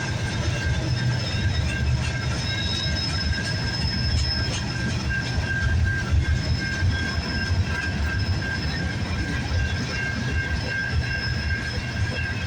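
Freight cars of a CN manifest train rolling past at a steady pace: a continuous low rumble of steel wheels on rail, with a steady high-pitched ring above it and a few faint clicks.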